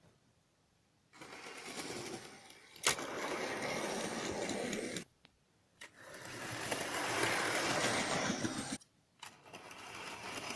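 Model train running along its track, its small electric motor going steadily. It runs in two stretches of a few seconds each with a short stop about five seconds in, then more faintly near the end. There is a sharp click about three seconds in.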